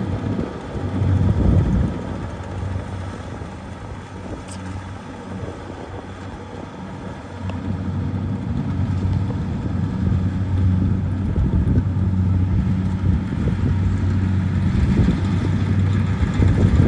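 Kubota DC70 rice combine harvester's diesel engine running with a steady low hum, fading somewhat a few seconds in and then growing louder again from about halfway through.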